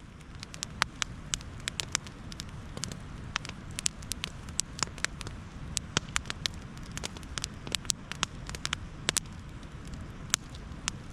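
Wood campfire crackling, with many irregular sharp cracks over a low steady rumble.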